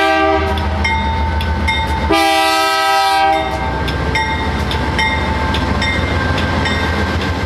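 BNSF diesel freight train passing close by, its locomotive horn sounding a multi-note chord that cuts off about half a second in and sounds again for about a second from around two seconds in. Under the horn runs the steady rumble of the locomotives and rhythmic wheel clicks over the rail joints.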